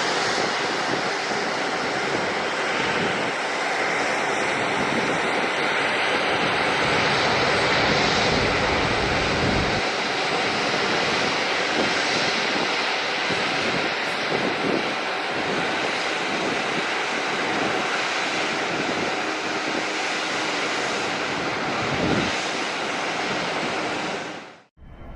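Jet airliner's engines running loud and steady as the plane lands, a dense rushing roar with a faint high whine in the first several seconds. The sound cuts off abruptly near the end.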